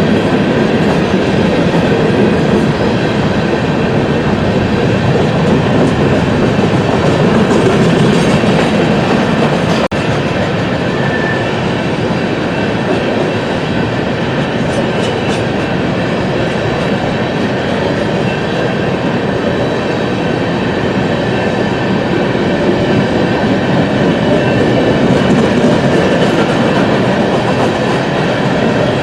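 BNSF coal train's freight cars rolling past on the rails, a steady loud rumble of wheels on track.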